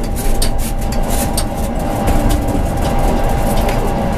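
Tram running along the track, heard from the driver's cab: a steady low rumble with a thin steady whine and scattered short clicks and knocks.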